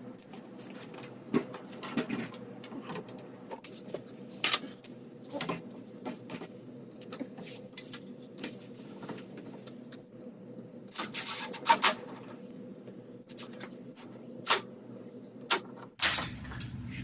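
Scattered light knocks and clicks of an interior door and its hinge hardware being handled and fitted, over a faint steady hum. A cluster of sharper clicks comes about eleven seconds in.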